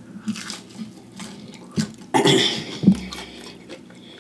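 Close-up chewing of a bite of Flamin' Hot Cheetos–crusted fried pickle: wet mouth sounds and small crunches, with a louder breathy burst about halfway through.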